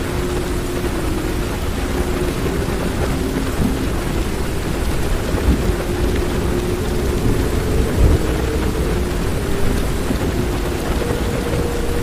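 Heavy rain falling on a car's roof and windows, heard from inside the cabin, with thunder rumbling. A few louder thumps come through, about four, five and a half and eight seconds in.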